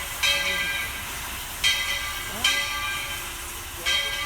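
Steam locomotive's bell ringing, four swinging strokes with uneven gaps, each ringing on and fading, over a steady hiss of steam.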